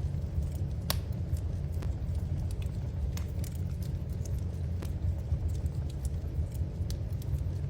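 Wood fire in a fireplace crackling, with irregular sharp pops over a steady low rumble of burning; the loudest pop comes about a second in.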